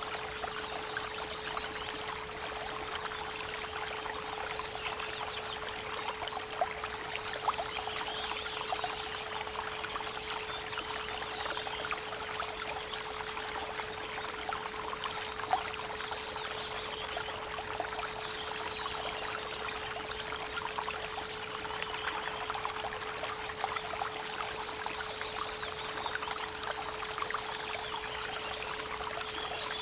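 Creek water running and splashing steadily, with birds chirping and trilling now and then, under a steady 432 Hz pure tone.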